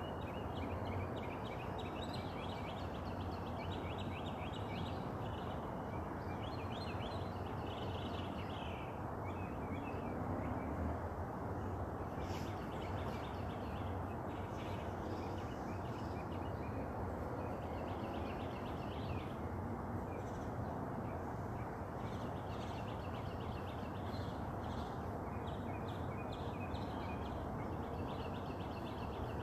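Several birds chirping and singing over a steady background noise.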